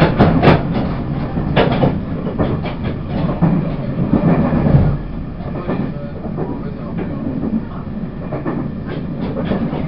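Running sound inside a Taiwan Railways E1000 push-pull Tze-Chiang express coach: a steady rumble of the train on the track with frequent clicks and knocks from the wheels and rails. It is louder and busier for the first five seconds, then settles to a steadier run.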